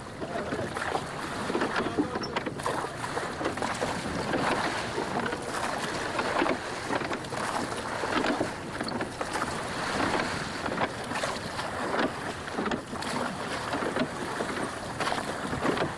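Water splashing and slapping against the hull of a small open yole under way, with wind buffeting the microphone.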